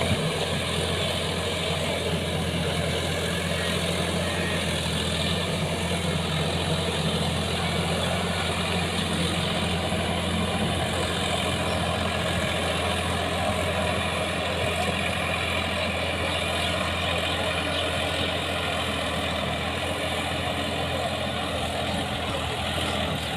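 Sonalika tractor's diesel engine running steadily at an even speed.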